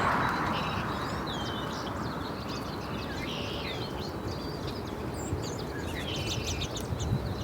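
Small songbirds chirping and twittering, many short calls overlapping and busier near the end, over a steady low background rumble.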